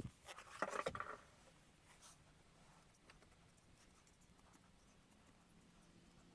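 A short burst of light scraping and clicking in the first second, then near silence with a few faint ticks.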